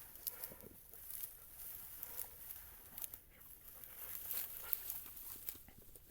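Faint, irregular crackling and rustling of footsteps moving through dry grass and weeds.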